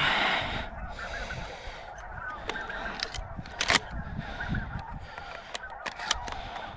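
A flock of geese honking as they fly in, many calls overlapping, with a few sharp clicks.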